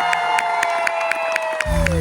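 Crowd cheering and whooping over live show music: a long held note that slides down at the end, with a steady tick about four times a second. The bass drops out and comes back in near the end.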